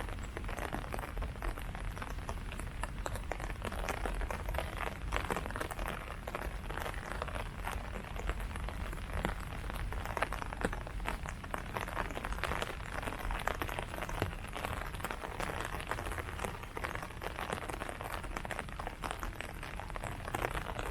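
Steady rain falling on leaves: a continuous wash of noise made up of many separate drop ticks.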